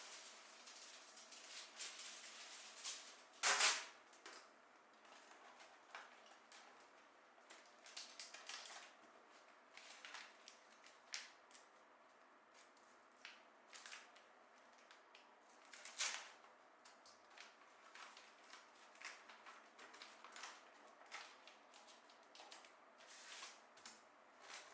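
Irregular small clicks, taps and rustles of hands working with small objects, with a sharper snap about three and a half seconds in and another about sixteen seconds in.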